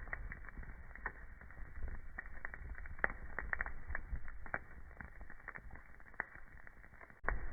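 Wood fire crackling, with irregular sharp pops and snaps over a low, steady rumble of burning. The pops come thicker near the start and near the end, and the sound cuts out abruptly for a moment shortly before the end.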